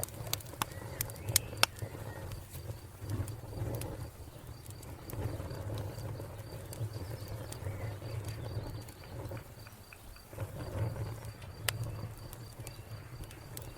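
Wood fire crackling, with a cluster of sharp pops in the first couple of seconds and another near the end over a low, steady rumble. A cricket chirps in a fast, even, high-pitched trill throughout.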